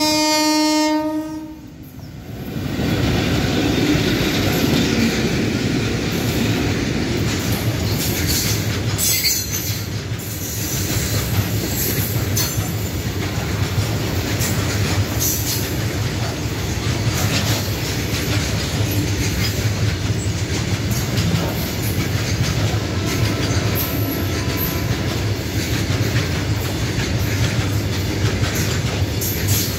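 An electric locomotive's horn sounds one blast of about a second and a half. Then a long freight train of covered wagons rolls past close by: a steady rumble of wheels on rails, with clickety-clack over the rail joints.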